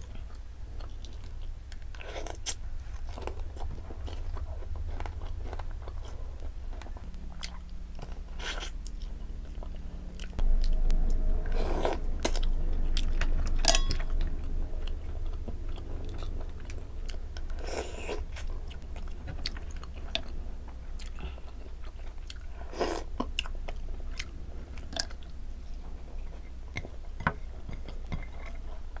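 Close-miked eating: chewing and biting on mouthfuls of green mussels and rice, with scattered short clicks and smacks. About ten seconds in a low rumble rises and fades a few seconds later.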